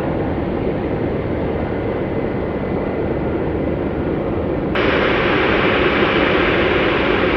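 Steady rushing noise of jet aircraft engines. About five seconds in it switches abruptly to a louder, brighter rush.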